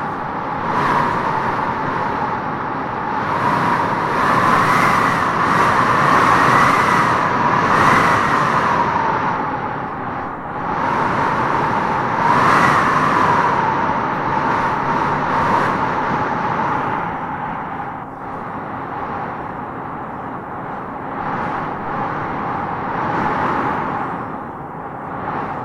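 Strong wind gusting through tropical trees: a rushing noise with a whistling howl that bends up and down in pitch, swelling in several gusts and easing off about ten seconds in and again in the second half.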